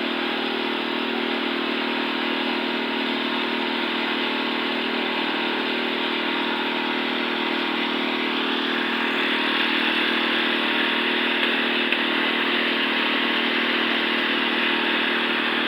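Small engine of a concrete mixer running steadily, with a churning noise over it that grows a little louder about nine seconds in.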